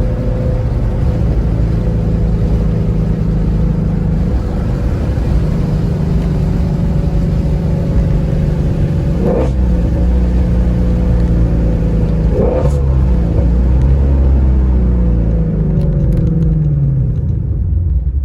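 Shelby car's engine running steadily while driving, its engine note sliding up and down in pitch in the last few seconds. Two brief knocks about nine and twelve seconds in.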